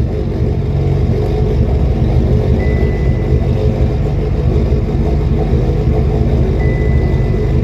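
Mitsubishi Evolution X rally car's built, turbocharged 4B11 four-cylinder engine idling steadily. A thin, high, steady tone sounds twice, briefly.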